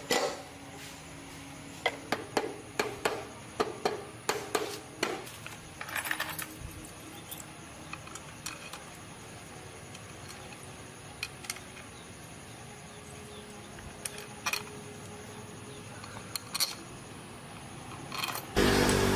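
Scattered light metallic clicks and taps of hand-tool work on a motorcycle. Near the end, an engine suddenly starts up and runs loudly.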